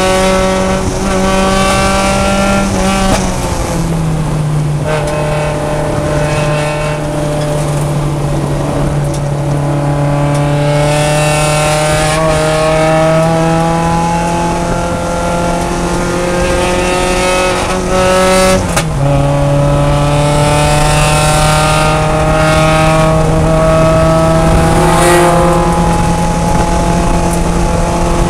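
Mazda Miata race car's four-cylinder engine under load, heard from inside the cockpit, its note climbing slowly as it pulls. The pitch falls sharply twice, a few seconds in and about two-thirds through, as it shifts up a gear.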